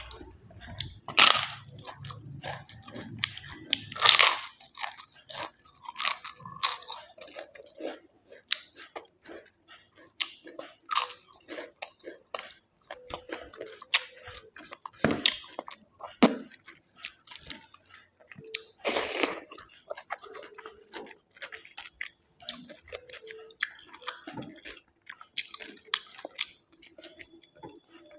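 A person chewing food close to the microphone, with wet mouth sounds and several loud, sharp crunches as something crisp is bitten.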